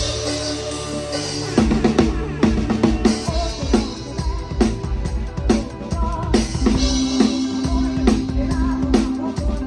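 Live band music with a PDP drum kit prominent: kick drum, snare and rimshots keep a steady beat under held keyboard and bass notes.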